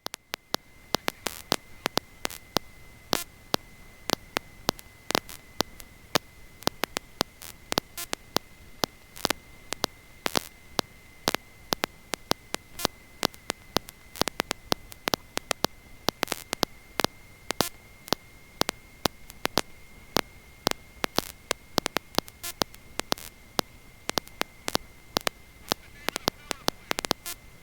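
Electrical static in the audio feed: a faint hiss with a steady high thin tone and many sharp, irregular crackling clicks. The usual aircraft engine and wind sound is cut off entirely, as in a signal dropout.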